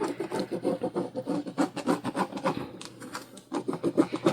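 Air-erasing marking pen scratching along a quilting ruler on fabric, a quick run of short strokes with a brief pause a little past three seconds in.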